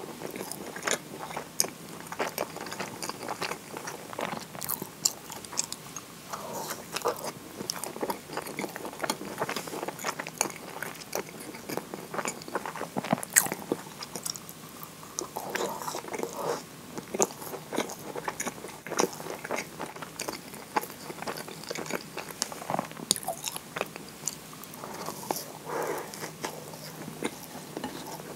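Close-miked biting and chewing of a moist kinako (roasted soybean flour) scone dipped in maple syrup: soft wet mouth smacks and many short clicks throughout.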